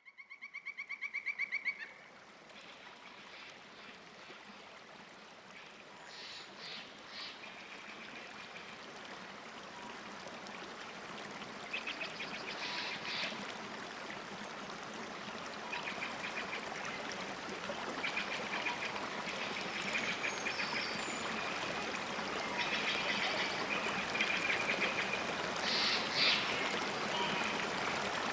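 Steady rushing and trickling of flowing water that slowly grows louder, with short bursts of bird calls breaking in every few seconds. It opens with about two seconds of a rapid pulsing tone that swells and then stops.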